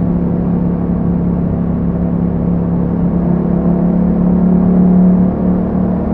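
Yamaha MT-07's parallel-twin engine running through an Akrapovic exhaust with a dB killer, holding a steady note under throttle. The pitch climbs a little and gets louder toward about five seconds in, then drops briefly, as on a throttle roll-off or gear change.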